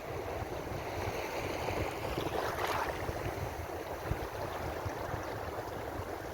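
Ocean waves washing in as steady surf with a deep rumble, one wave surging and breaking a little louder between two and three seconds in.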